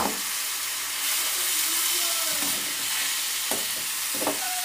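Sliced radish sizzling in a hot wok while a metal spatula stirs and scrapes it, with a steady frying hiss. A sharp clank at the very start and two knocks of the spatula against the wok near the end.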